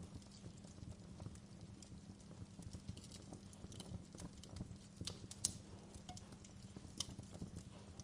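Wood fire crackling in a fireplace: irregular sharp snaps and pops over a low steady rumble, with the loudest pop about five and a half seconds in and another near seven seconds.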